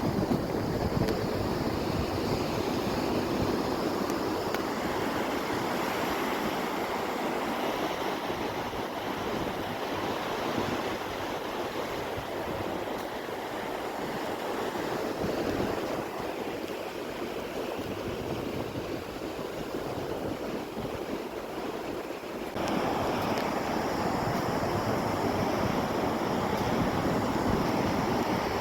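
Ocean surf washing on a beach, a continuous rushing wash, with wind on the microphone. It gets suddenly louder about 23 seconds in.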